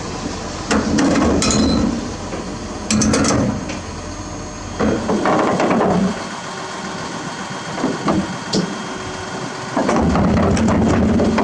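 Heavy machinery working: four bursts of low rumbling mixed with metal clanks and knocks, over a steady engine sound.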